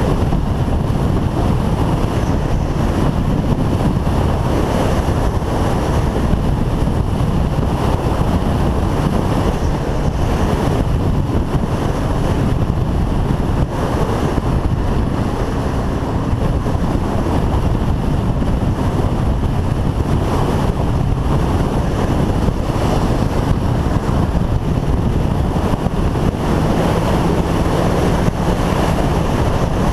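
Motorcycle riding at speed: heavy wind rush buffeting the microphone over a steadily running engine, with a steady engine tone coming up more clearly near the end.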